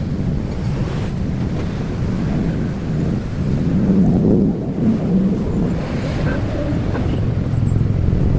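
Low, steady rumble of road vehicles, swelling slightly midway.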